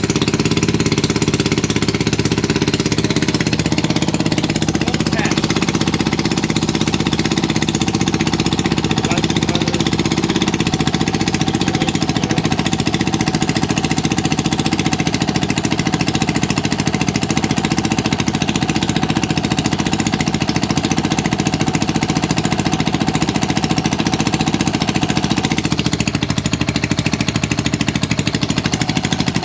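Modified Briggs & Stratton 206cc single-cylinder pushrod engine running with no flywheel, on a high compression ratio of about 15:1, firing in a steady rapid rhythm. Its note shifts slightly near the end.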